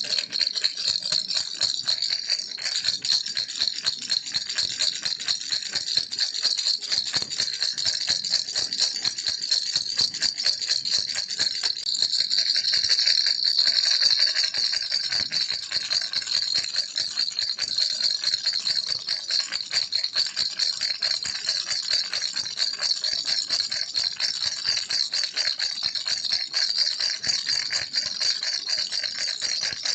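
Baby rattle shaken continuously: a dense, fast, high-pitched rattling with no pauses, a little louder about halfway through.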